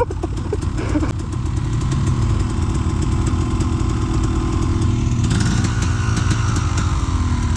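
ATV engine running steadily, then revving higher about five seconds in.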